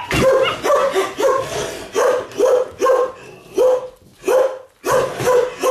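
Malinois puppies barking in a rapid string of short, high-pitched barks, about two or three a second, with a brief break about four seconds in.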